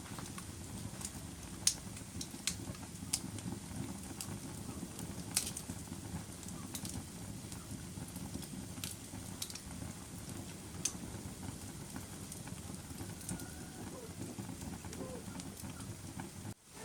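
Wood fire in a fireplace crackling: irregular sharp pops and snaps over a steady low rumble of burning. The sound cuts out for a moment near the end.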